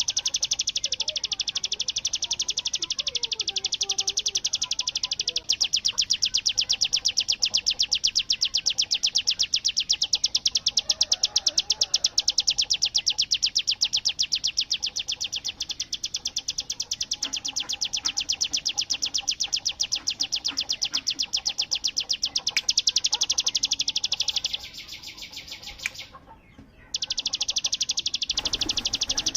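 Ciblek gunung (mountain prinia) singing its rapid machine-gun rattle, a very fast even run of sharp high notes. It weakens and breaks off for about a second near the end, then starts again.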